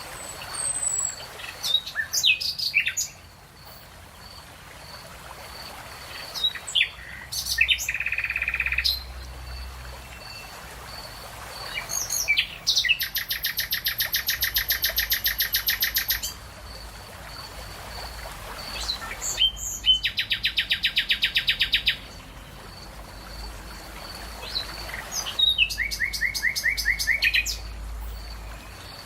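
Songbirds singing: short chirps and whistled sweeps, and three rapid trills of quickly repeated notes, the longest lasting about three seconds near the middle. A faint high note repeats steadily behind them.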